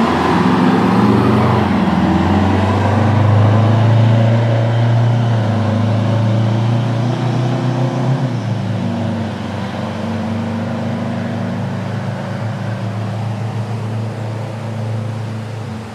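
A motor vehicle's engine running steadily, the hum easing down in level about halfway through.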